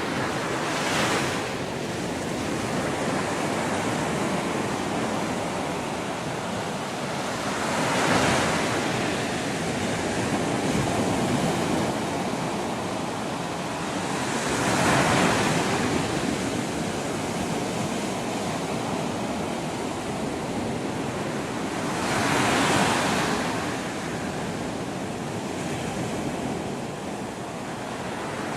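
Surf on the beach: waves breaking about every seven seconds, four times, with a steady wash of water between them.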